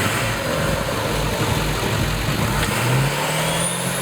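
Ford F-250 turbo diesel engine running, then revving up about three seconds in, with a thin high turbo whistle rising as it spools.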